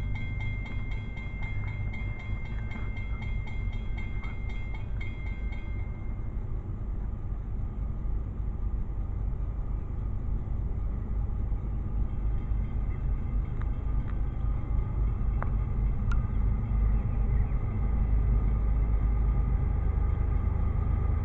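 Train rumbling along the rails, growing louder toward the end. A high ringing with a fast, even ticking stops about six seconds in.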